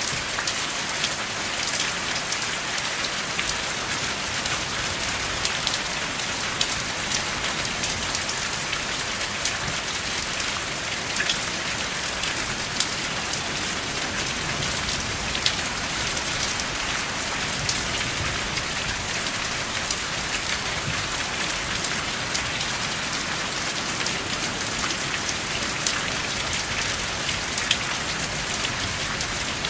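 Steady rain falling without thunder: an even hiss with many individual drops ticking sharply through it.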